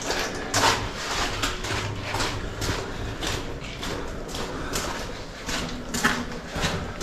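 Footsteps at a steady walking pace, each step a short gritty scuff.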